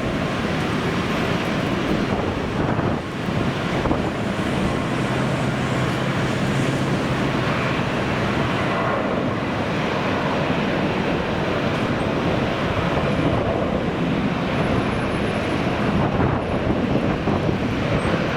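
Strong wind buffeting the microphone over the steady rumble of a jet airliner.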